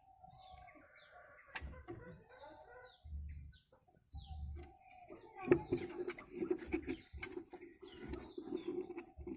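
Small birds chirping repeatedly in short, high, falling notes, with a chicken calling in a louder, lower, pulsing run from about halfway through. A couple of sharp clicks are heard.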